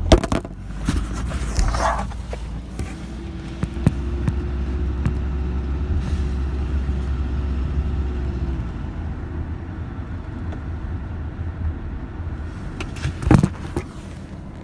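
Low rumble of a motor vehicle with a faint steady tone above it. The rumble stops about eight and a half seconds in. Scattered knocks are heard, and a louder bump comes near the end.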